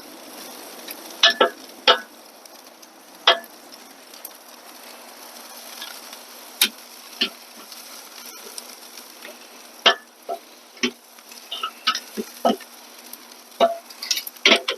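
Chicken thighs sizzling on a charcoal Weber kettle grill grate, a steady hiss broken by scattered sharp clicks and pops that come more often in the second half.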